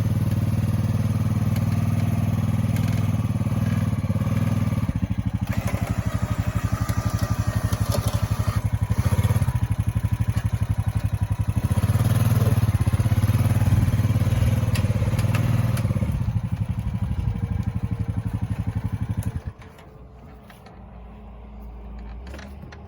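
Honda FourTrax ATV engine running steadily under load while it drags a heavy wooden step with log grabbers. About nineteen seconds in, the engine sound drops sharply to a much quieter low hum.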